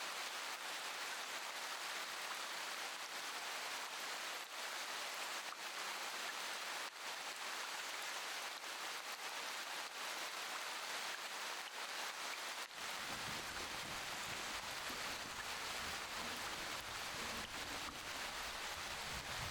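Steady rain hiss with scattered faint drop taps. About two-thirds of the way through, a low rumble comes in under the rain and stays.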